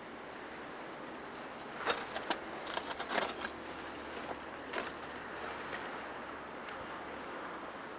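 Steady outdoor noise, like wind or distant traffic, with a cluster of sharp clicks and scrapes about two to three and a half seconds in and one more click near five seconds.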